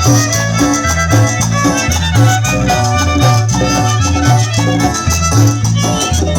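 Chanchona band playing an instrumental cumbia passage: a repeating upright-bass line under violin melody, with shaken percussion keeping a steady beat.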